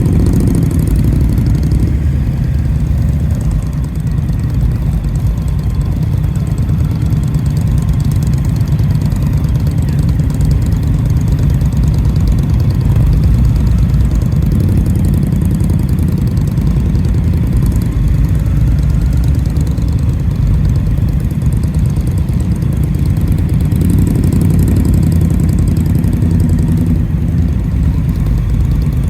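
Indian motorcycle's V-twin engine running steadily under way, a low rumble with little change in level.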